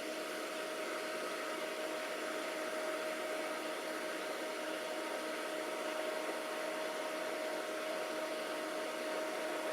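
Alienware Aurora Pentium 4 desktop's cooling fans running at full speed, a steady rushing hiss with a faint steady hum under it, the machine powered on but giving no video.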